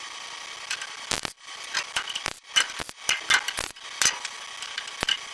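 Irregular metallic clicks and clanks over a steady hum, as a welder and its gear are hauled out and set up.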